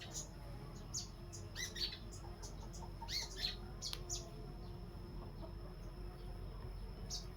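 Birds chirping in short, high, falling calls that come in little clusters every second or two, over a steady thin high-pitched tone and a low hum.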